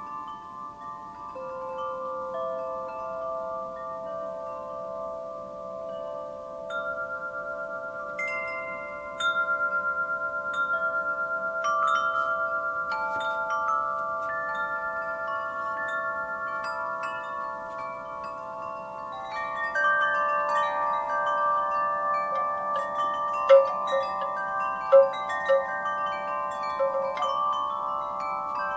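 Wind chimes ringing in a breeze, many overlapping tones struck at irregular moments and left to ring on. The chiming grows busier in the second half, with a few sharper, louder strikes near the end.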